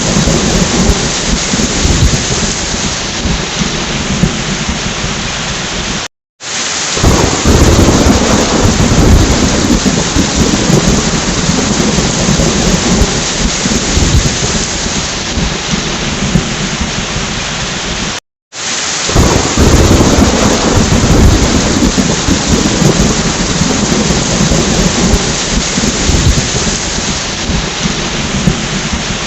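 Heavy rain with rolling thunder, a looped recording that cuts briefly to silence about 6 and 18 seconds in, with the thunder rumble swelling right after each cut.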